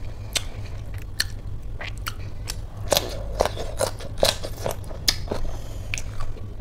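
Close-miked eating sounds: a person chewing a handful of khichdi, with sharp wet mouth clicks and smacks, busiest around the middle, over a steady low hum.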